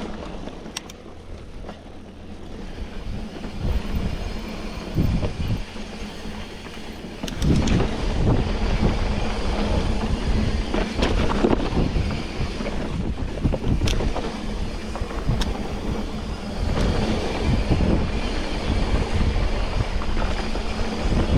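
Bicycle riding over a rough trail: a steady rumble with scattered rattles and knocks, growing louder about seven seconds in.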